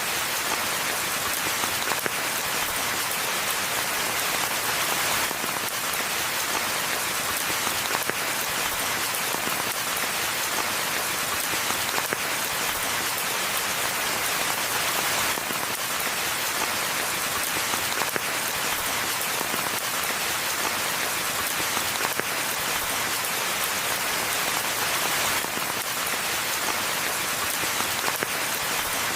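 Steady rainfall: an even hiss of many drops, unchanging throughout.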